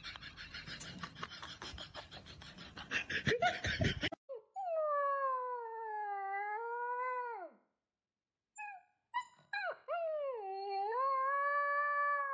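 A rapid, rhythmic scratchy noise, then a dog howling: two long drawn-out howls whose pitch dips and rises before falling away, with a few short yelps between them.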